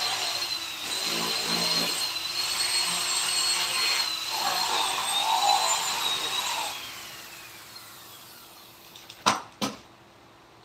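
High-speed rotary carving tool cutting wood. Its high whine dips a little under load, then falls away in pitch as the tool is switched off and spins down, about two-thirds of the way in. Two sharp knocks come near the end.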